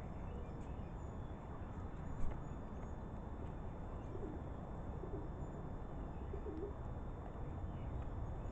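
Birds calling: a few short, low cooing notes near the middle, over a steady low background rumble, with a single knock about two seconds in.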